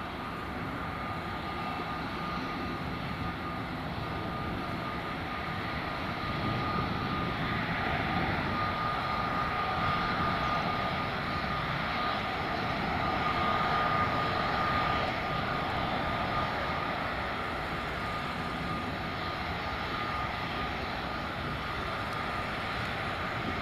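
The GE90-115B turbofan engines of a Boeing 777-300ER running steadily: a broad rush with a steady high whine through it, swelling a little in the middle.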